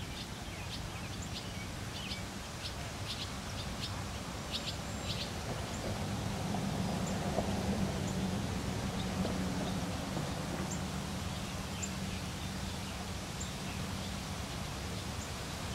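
Small birds chirping in quick, short high notes, thick for the first few seconds and then only now and then, over a steady low outdoor rumble.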